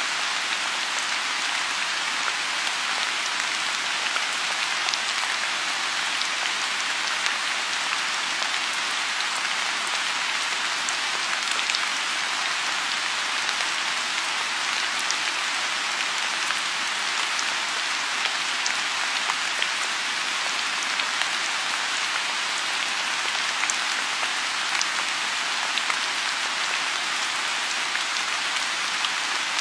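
Steady rain falling on a lotus pond: an even hiss with single drop ticks scattered through it.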